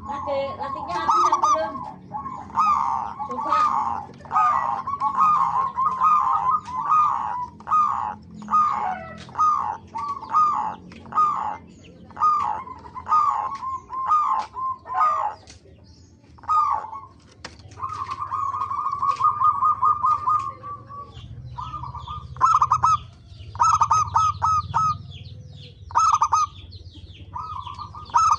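Zebra doves (perkutut) cooing: short trilled coos repeated in quick succession, with one longer unbroken trilled phrase a little past the middle. Fainter high-pitched chirps sound above them.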